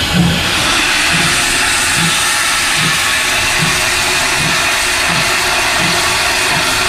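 CFR class 231 steam locomotive 231.065 working, with a steady loud hiss of steam over a soft low beat about once every three-quarters of a second.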